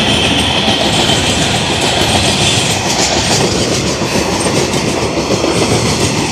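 Coal train passing at close range: a loud, steady rumble of the wagons with the wheels clattering over the rails.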